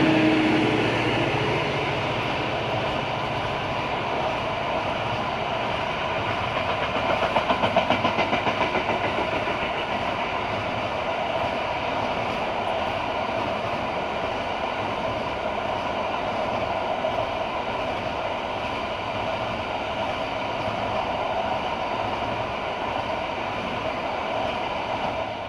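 A train's cars rolling past on the track, with a steady rumble and the clickety-clack of wheels over rail joints; a rhythmic pulsing swell comes about seven seconds in.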